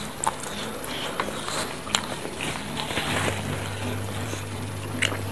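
Close-miked chewing and mouth sounds of a person eating chicken feet: a few sharp wet smacks and clicks, a second or so apart.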